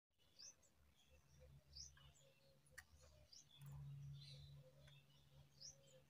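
Faint bird chirping: short, high, upward-sweeping chirps repeated roughly once a second. A low steady hum runs underneath and swells in the middle.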